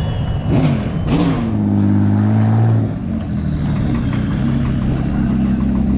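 American V8 engine blipped twice in quick succession, the revs rising and falling each time. It is then held at higher revs for a second or two and drops back to a steady lower running speed about halfway through.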